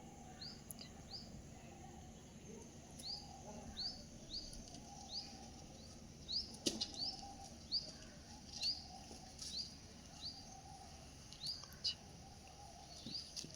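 A small bird chirping over and over: short, high single chirps, about one or two a second, with a faint steady background hum beneath.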